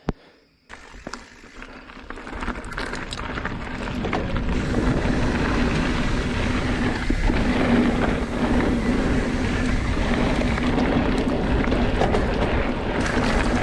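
Mountain bike riding down a dirt trail: wind rushing over the microphone and tyres rumbling on the ground, building up over the first few seconds as speed picks up and then holding steady.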